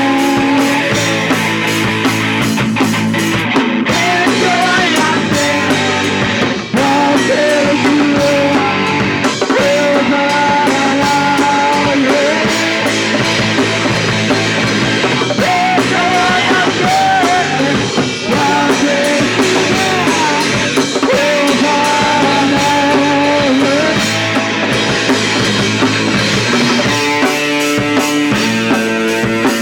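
A punk rock band playing live: electric guitar and drum kit, loud and steady.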